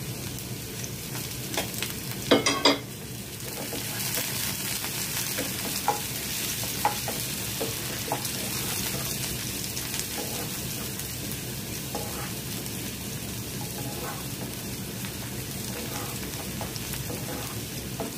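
Chopped garlic, ginger and curry leaves sizzling in hot coconut oil in a non-stick frying pan, stirred with a wooden spatula that taps the pan now and then. A short loud burst about two and a half seconds in, and the sizzle grows louder soon after.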